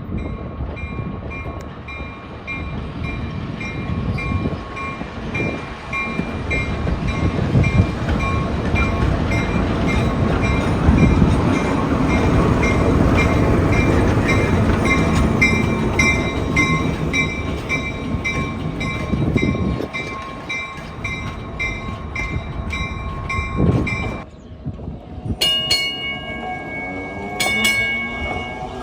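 Train rolling past a grade crossing while the crossing bell dings steadily, roughly twice a second. The train noise builds, then drops away suddenly about 24 seconds in.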